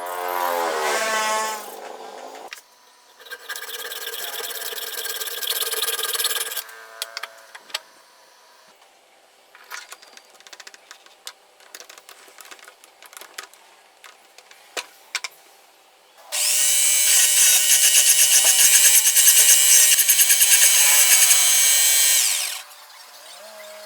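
Electric drill running in separate bursts: a short run changing speed at the start, a second run a few seconds in, and a longer, louder run of about six seconds near the end. Scattered clicks and knocks of handling fill the quieter stretch in between.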